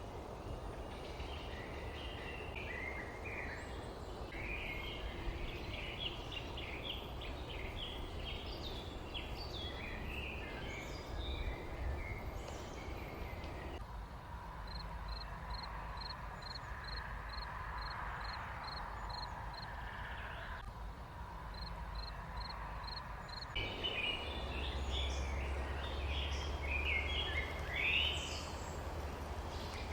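Small birds chirping and twittering in a rural outdoor ambience, over a steady low background rumble. In the middle stretch the chirping gives way to one bird repeating a high, single-note pip about twice a second.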